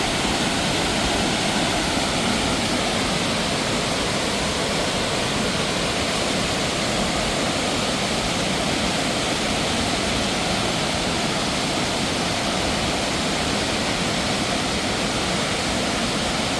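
Mountain water rushing steadily over rocks, a loud, even roar of falling water.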